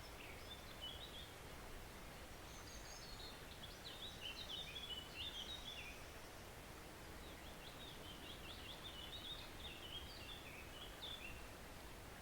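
A small songbird singing two quick runs of high chirping notes, each about three seconds long, over the faint steady rush of a woodland stream.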